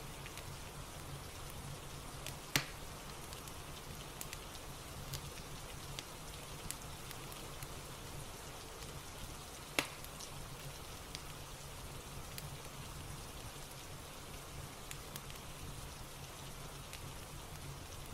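Steady rain with the scattered crackles and pops of a wood fire, two pops much louder than the rest: one a few seconds in, one about halfway.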